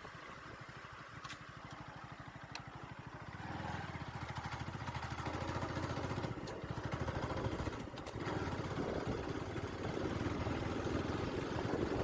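Motorcycle engine running while riding. Its steady pulse grows louder about three and a half seconds in, with rising wind and road noise.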